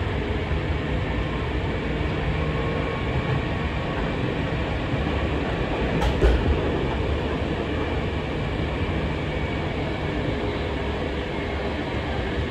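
Hankyu electric commuter train running along straight track, heard from inside the front cab: steady wheel-and-motor running noise, with a sharp double knock about six seconds in.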